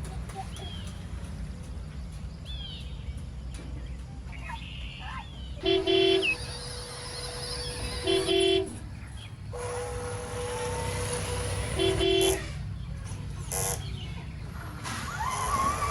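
A vehicle horn beeps three short times, over a steady low rumble. Faint bird chirps come in the first few seconds.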